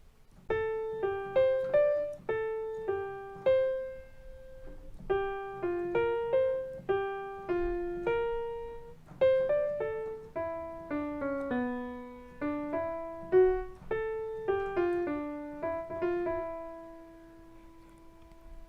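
Piano playing a simple melody of single struck notes in the middle register, one after another, ending on a long held note that dies away.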